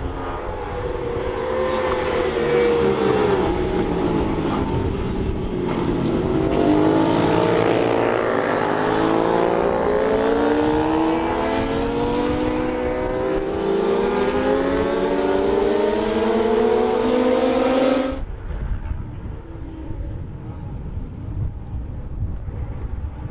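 Several racing motorcycles at full throttle, their engine notes overlapping and climbing repeatedly as they accelerate through the gears. The sound cuts off abruptly about three quarters of the way through and gives way to a quieter, rougher engine sound.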